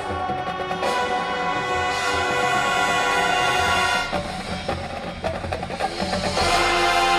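High school marching band playing live: sustained brass chords over drums and percussion. About four seconds in the brass drops away to a quieter passage carried by the percussion, and the full band swells back in near the end.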